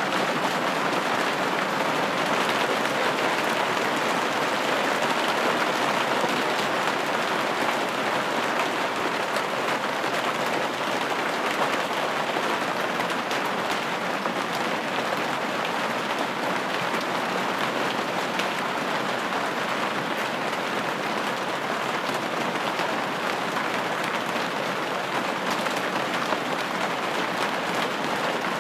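Steady rain pattering on a window pane, a dense even hiss of drops with faint individual taps.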